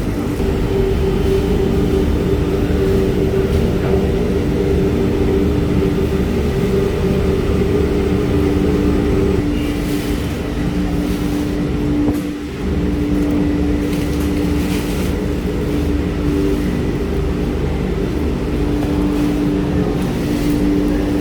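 Washing machine running steadily with a continuous low mechanical hum, with a brief dip about twelve seconds in.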